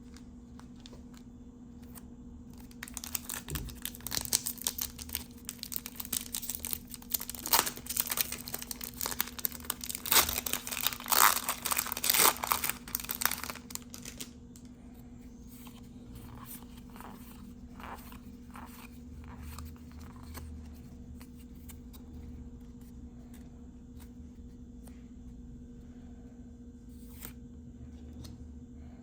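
A Yu-Gi-Oh booster pack's foil wrapper being torn open and crinkled, loud and crackly for about eleven seconds. Quieter rustling and light clicks follow as the contents are handled. A faint steady hum sits underneath.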